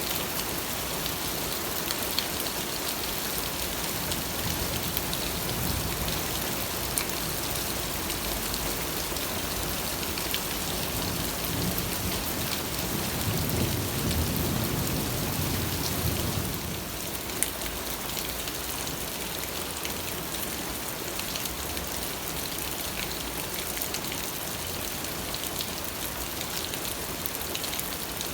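Steady rain falling on a surface, with the patter of individual drops. About halfway through, a low rumble swells for a few seconds and then cuts off sharply.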